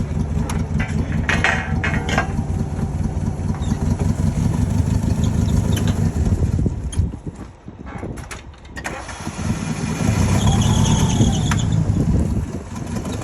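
Vehicle engine running, dying away about seven seconds in and starting up again about two seconds later, with a few knocks during the gap.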